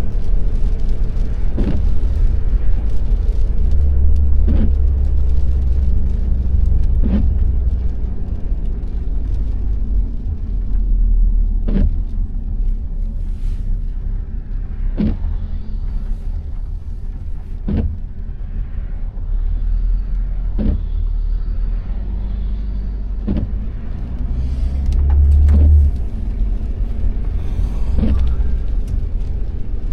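Road noise and engine rumble inside a moving car's cabin in the rain. A short regular swish-thump recurs about every three seconds, typical of the windscreen wipers sweeping.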